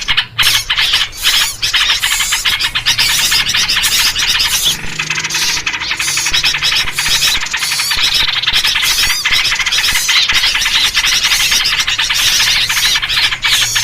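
A noisy flock of small birds chattering and chirping without a break, led by yellow-vented bulbul (trucuk) calls. It is a bird-luring call recording.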